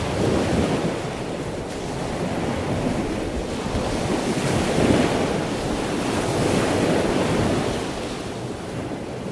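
Rushing water noise like surf, swelling and easing in slow waves, loudest about five seconds in and fading near the end.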